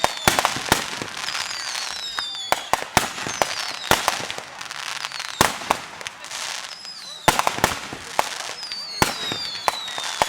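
Aerial fireworks going off: a rapid series of sharp bangs and crackling, with several high whistles that fall in pitch between the explosions.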